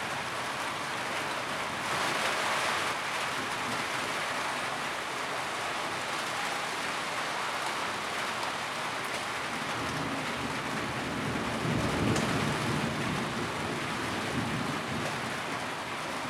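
Steady rain drumming on a tin roof, an even hiss of dense drops. A low rumble swells and fades in the second half.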